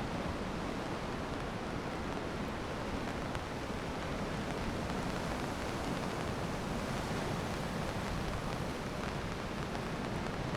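Steady rushing noise of rain and sea surf, even throughout with no separate knocks or calls.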